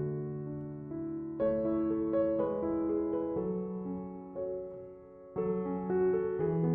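Slow, gentle background piano music: sustained notes and chords that fade to a low point about five seconds in, then a new chord strikes.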